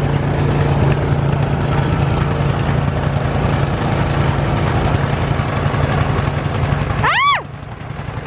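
Gasoline snow blower engine running steadily under load with a low, even drone. About seven seconds in the sound drops off suddenly, with a brief high tone that rises and falls.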